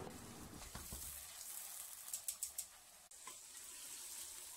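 Chicken pieces deep-frying in a wok of hot oil: a faint, steady sizzle, with a few sharp clicks about halfway through.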